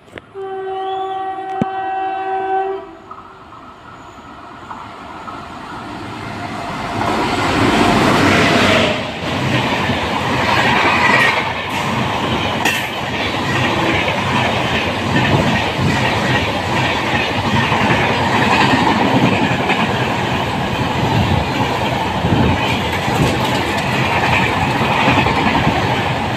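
An Indian Railways locomotive horn sounds one long blast at the start. The express then approaches with a rising rumble and runs through the station at speed, its coaches' wheels clattering steadily over the rail joints until the last coach passes.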